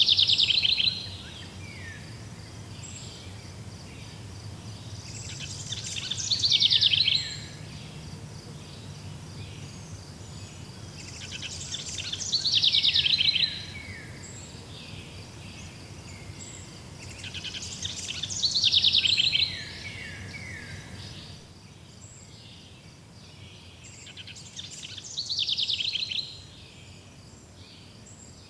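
A songbird repeats the same song phrase five times, about every six seconds. Each phrase is a fast trill that builds in loudness for about a second and ends in a few notes falling in pitch. Beneath it an insect chorus chirps in a steady, even pulse.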